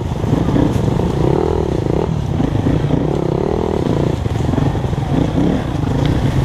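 Dirt bike engine running, its pitch rising and falling again and again.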